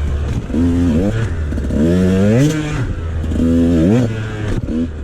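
Two-stroke dirt bike engine, a 2014 KTM XC300, under hard riding: its pitch climbs under throttle and drops back about four times in quick succession.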